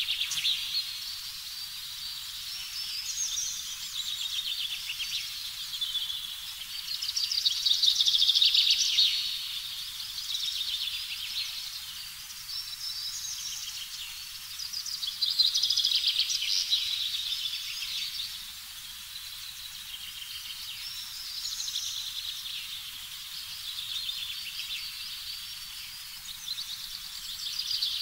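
Small birds chirping and trilling together, swelling and fading in bouts every few seconds.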